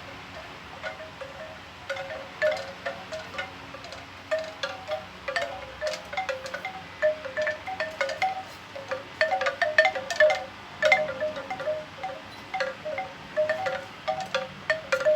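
Bamboo wind chime knocking in the wind: its hollow tubes strike each other irregularly, ringing in quick clusters of pitched clacks, sparse at first and busier from about four seconds in.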